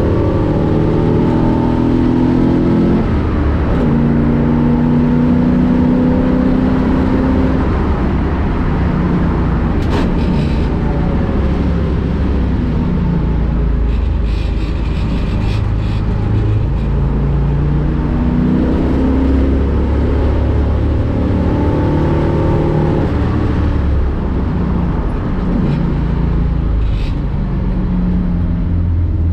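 1965 Ford Mustang race car's engine at speed, heard onboard: its pitch climbs hard under acceleration, then drops away at each gear change or lift for braking, over and over as it laps.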